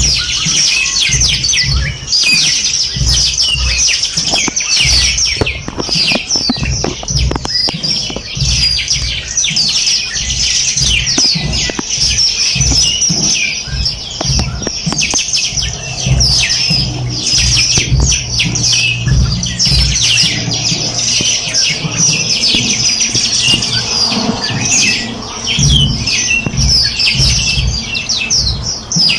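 Many small songbirds chirping and trilling at once: a dense, continuous chorus of quick high notes. An uneven low rumble runs underneath.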